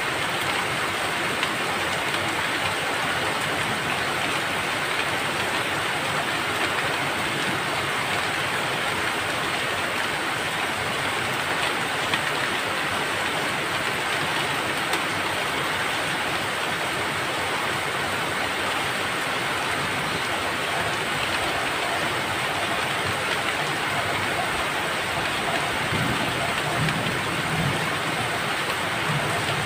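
Steady rain falling, an even hiss with no let-up, with a low rumble coming in near the end.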